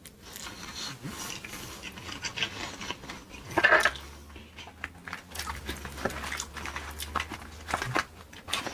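Close-miked eating sounds: chewing with many scattered clicks and taps of a utensil and food container, and one louder burst about three and a half seconds in.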